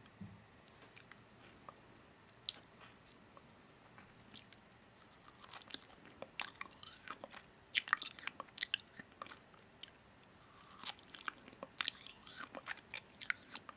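Crunchy biting and chewing of food: sharp crackling crunches that come in quick clusters. They are sparse for the first few seconds and busiest from about five seconds in, with a short lull before a second run.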